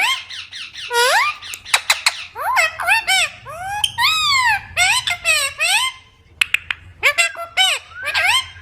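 Green parrots chattering: a rapid string of short, high squeaky calls that swoop up and down in pitch, with a brief lull about six seconds in.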